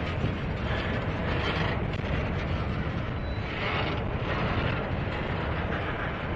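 Double-stack intermodal well cars rolling past: a steady rumble of steel wheels on rail, with a hiss that swells and fades every second or so.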